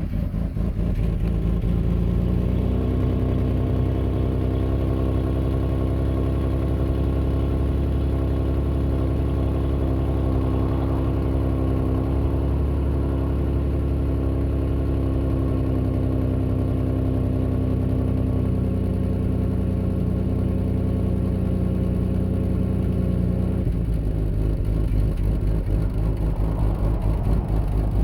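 Nissan Maxima engine running, held at steady raised revs for most of the time, settling lower about two-thirds through and turning choppier near the end. Its buzzy note is what the owner likens to a rotary engine.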